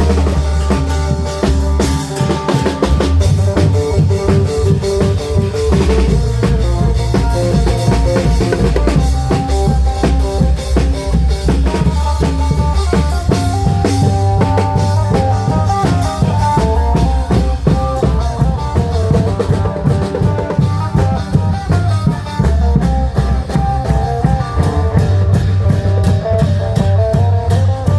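An Isan applied long-drum (klong yao prayuk) band playing live: a driving beat of drums and cymbals under a heavy bass line and a melody.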